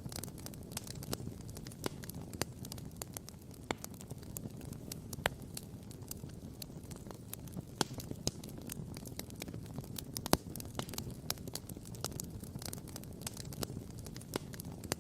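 Wood campfire crackling and popping: many sharp snaps over a steady low rumble, with one louder pop about ten seconds in.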